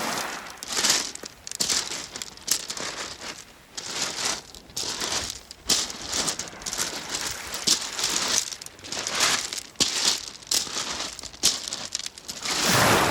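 Rounded beach pebbles crunching and rattling against one another in irregular bursts about once a second, with a louder, fuller surge near the end.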